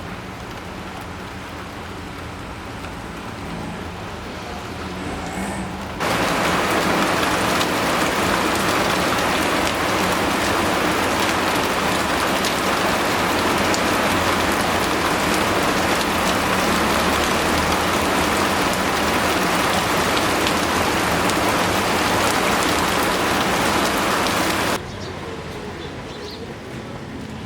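Steady rain falling. About six seconds in it suddenly becomes much louder and denser, like a heavy downpour, then drops back to the lighter rain just as abruptly a few seconds before the end.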